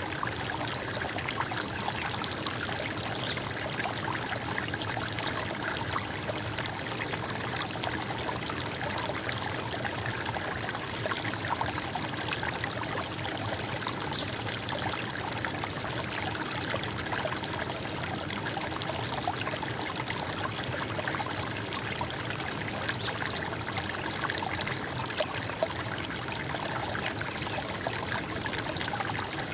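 A stream of water running and trickling steadily.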